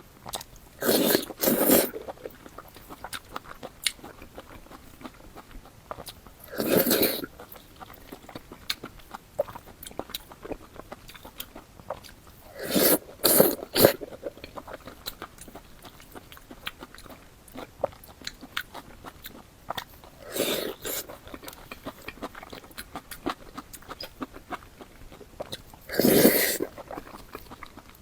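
Close-miked eating of minced pork with eggplant: wet chewing and mouth clicks, broken every few seconds by a louder, noisy bite or mouthful sound.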